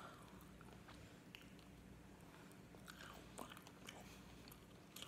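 Faint chewing of fried chicken close to the microphone, with a few soft mouth clicks.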